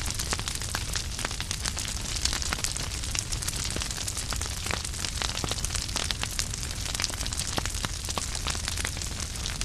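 Wood fire burning in a fireplace: dense, irregular crackling and snapping of burning logs over a steady low rumble of the flames.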